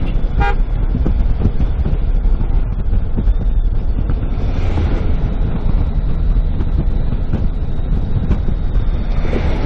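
Steady road and engine rumble heard from inside a moving car, swelling briefly about halfway through.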